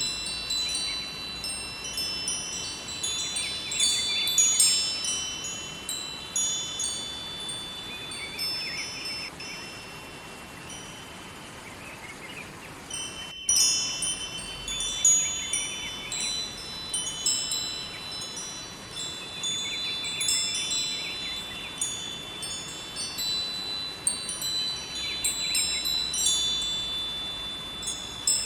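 Metal wind chimes ringing irregularly in many high, overlapping tones over a steady rush of flowing river water. The chimes thin out just before a brief cut to silence about halfway through, then ring again.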